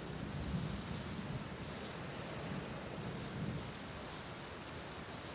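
Steady rain with low rolling rumbles of thunder swelling and fading.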